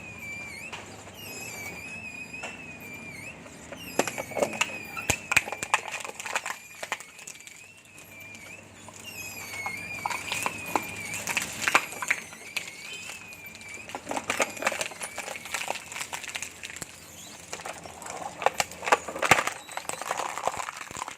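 Waste shredder running with a wavering high whine, broken by bouts of cracking and snapping as solid waste is fed in and broken up, the first starting about four seconds in.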